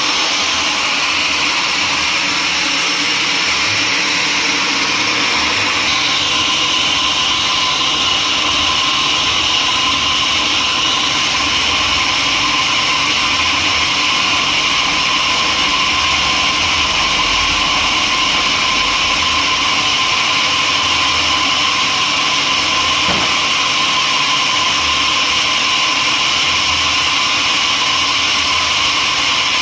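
Sawmill saw and machinery running, a loud steady mechanical noise with a high whine that changes pitch about six seconds in.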